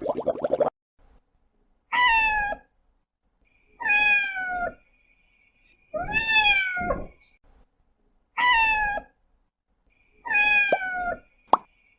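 A cat meowing five times, roughly every two seconds, each meow short and falling in pitch. A brief rough noise ends under a second in, before the first meow.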